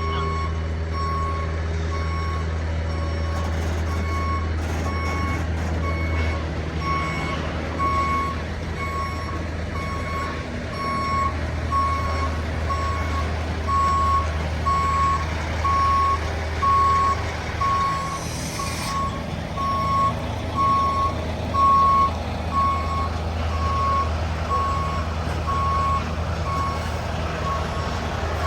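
Semi truck reversing: its backup alarm beeps at an even pace over the low, steady rumble of the diesel engine, with a brief hiss about two-thirds of the way through.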